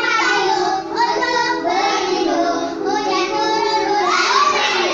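A child singing a song, with a steady held note underneath.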